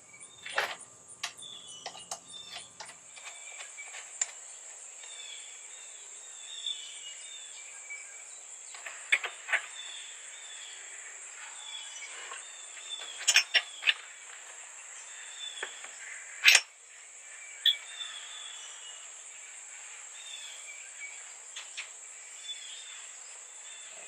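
A steady high-pitched insect drone with birds chirping over it, and scattered sharp clicks and knocks of objects being handled, the loudest about two-thirds of the way through.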